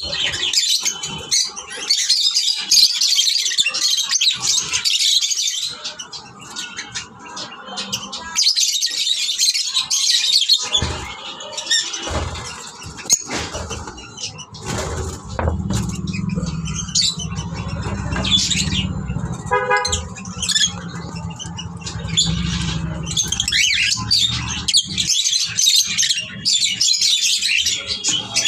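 Love birds chattering and chirping in loud, dense bouts. In the middle there is a steady low rumble of traffic, with a short horn-like toot about twenty seconds in.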